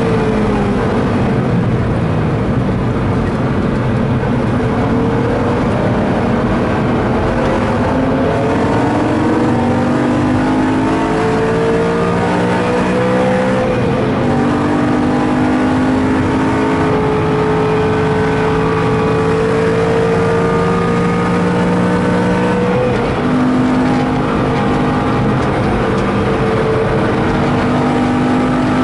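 BMW M3 E92's 4.0-litre V8 heard from inside the cabin under hard acceleration, its pitch climbing slowly through long pulls and dropping sharply with upshifts about 14 and 23 seconds in, over steady tyre and road noise.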